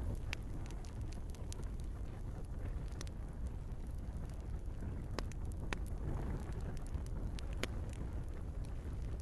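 Log fire in a fireplace crackling, with frequent small snaps and a few louder pops over a steady low rumble of burning.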